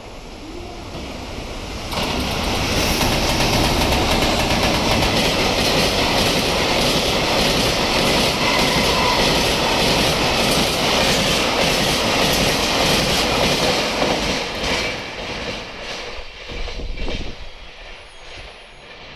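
Freight train headed by two EH200 electric locomotives passing at high speed. The wheel and rail noise rises, bursts in loud about two seconds in with fast clatter from the wagons, then fades over the last few seconds as the train goes by.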